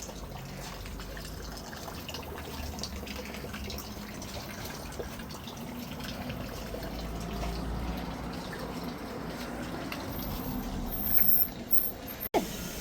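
Water trickling and splashing from a broken fountain spout, steady with small drips and splashes. About eleven seconds in, a few short, loud high-pitched sounds stand out, followed by a sudden brief cut.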